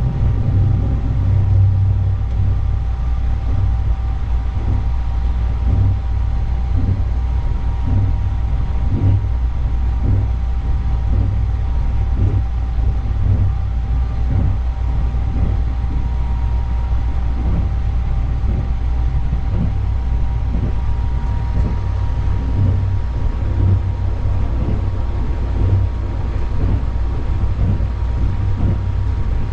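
Running noise inside the Sunrise Izumo sleeper train, a 285 series electric multiple unit, while it is under way: a steady low rumble with two faint steady tones and irregular light knocks from the wheels on the track.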